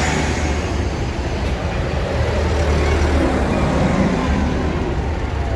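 Tractor engines running, a steady low rumble.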